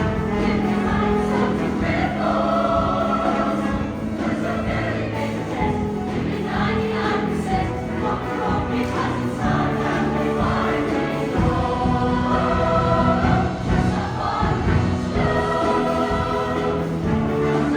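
High school show choir singing in harmony with live band accompaniment, holding sustained chords that shift every second or two.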